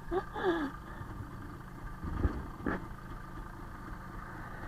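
IZh Planeta motorcycle's single-cylinder two-stroke engine idling steadily, with short louder noises near the start and a brief knock about two seconds in.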